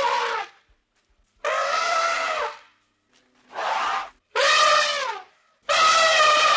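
An animal giving a series of loud, drawn-out calls, each about a second long with a short pause between, the pitch dipping at the end of each call.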